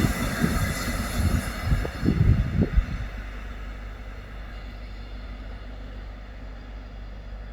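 A passing train dies away over the first few seconds, with a few low thumps near the start, leaving a quiet steady low rumble.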